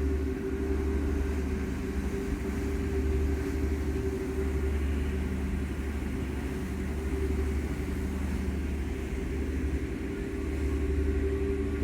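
Harbour passenger ferry's engines running under way: a steady low drone with a constant hum above it.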